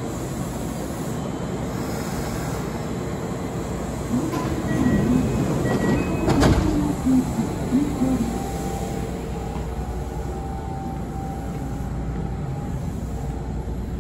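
Electric commuter train standing at the platform, its steady rumble and hum running throughout, with a louder stretch of knocks and rattles in the middle and one sharp knock about six and a half seconds in, around the doors as a passenger steps aboard.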